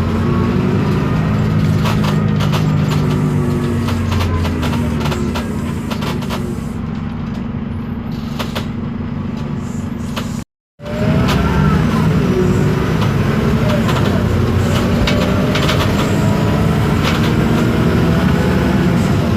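Isobus City 1200's MAN D0836 LOH diesel engine and ZF Ecomat automatic gearbox heard from inside the moving bus, with gearbox and differential whine sliding in pitch as the speed changes. The sound drops out for a moment about ten seconds in.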